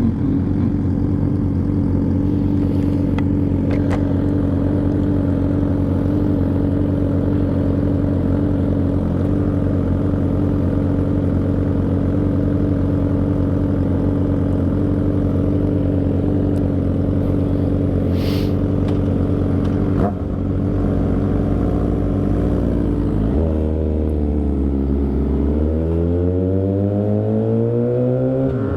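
Motorcycle engine running steadily at low revs, then revving up from about three-quarters of the way in as the bike pulls away, its pitch climbing, with a gear change near the end.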